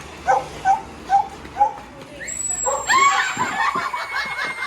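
A small dog yipping, five short high barks about half a second apart. From about three seconds in, a louder, busier mix of sound takes over, with a steady high tone running through it.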